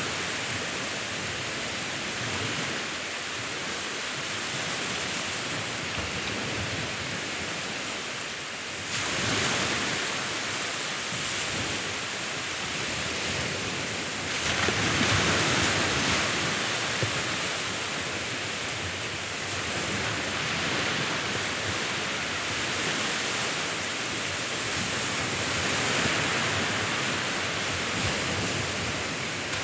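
Sea waves washing ashore in a steady hiss of surf, with a louder wave breaking and rushing in every five or six seconds.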